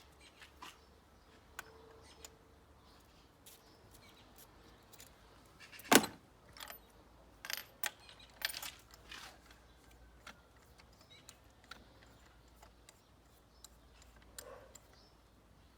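Scattered metallic clicks and clinks of hand tools at work on the engine's spark plugs, with one sharp, loud click about six seconds in.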